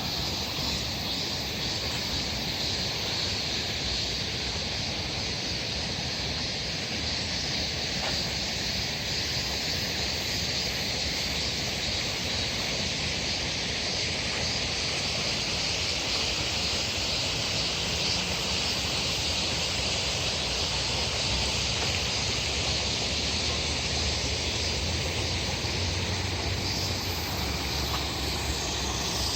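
Steady rushing noise of a stream running high after heavy rain, an even hiss with no breaks.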